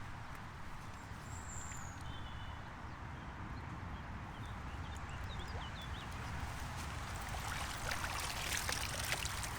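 Outdoor lakeside ambience: a steady low rumble of wind on the microphone with a light trickle of water, a few short bird chirps in the first half, and a run of small clicks and rustles near the end.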